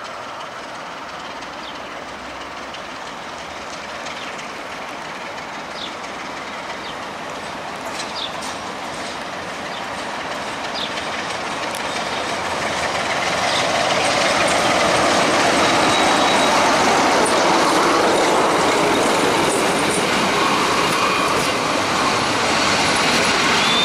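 A passenger train hauled by a Romanian class 62 (060-DA) diesel-electric locomotive approaches and passes. The rolling noise grows steadily louder for about fourteen seconds, then stays loud as the coaches roll past on the rails, with a brief high wheel squeal near the end.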